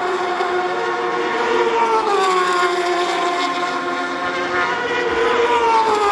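Racing superbike engine at high revs, its pitch dropping twice: about two seconds in and again near the end.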